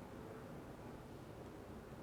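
Faint room tone: a steady low hiss with no distinct events.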